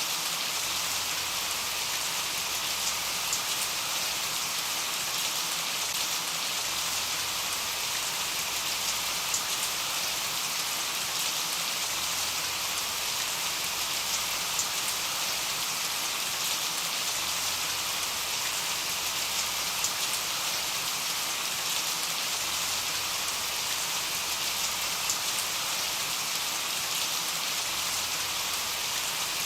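Steady rain falling, an even hiss with scattered sharper taps of single drops.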